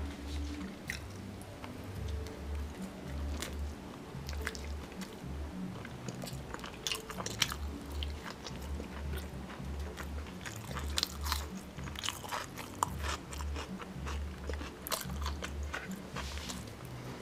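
A person chewing and biting a meal of ugali, meat and sukuma wiki, close to the microphone, with many short wet mouth clicks. Background music with a low, steady bass beat runs underneath.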